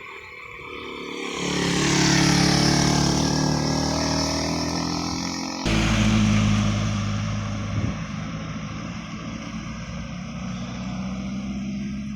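Heavy diesel engines working hard. One grows louder about a second in and stays loud; just past halfway it cuts abruptly to another steady heavy diesel drone, which fades somewhat after a couple of seconds.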